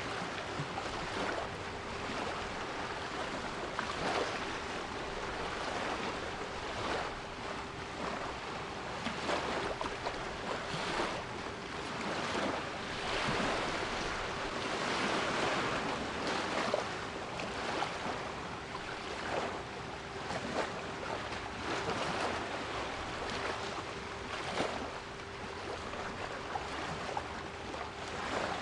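Sea waves washing in repeated surges, with a steady 396 Hz pure tone held beneath them.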